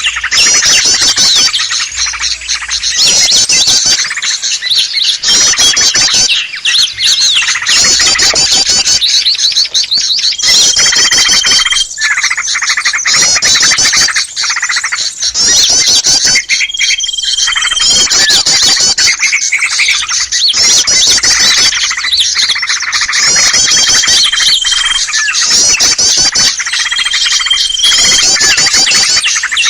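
Bird-trapping lure recording of many small birds chattering and calling at once, a dense, noisy twittering. A steady held whistle about a second long recurs four times.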